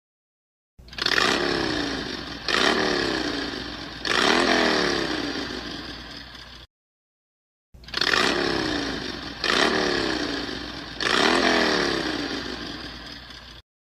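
A mobile phone ringtone: a set of three harsh tones, each striking sharply, then falling in pitch and fading, with the whole set of three played twice after a short pause.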